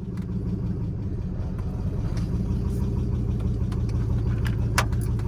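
Truck engine idling steadily on ramps with a ticking from it, which the owner takes for a lifter tick or an exhaust manifold leak on the passenger side.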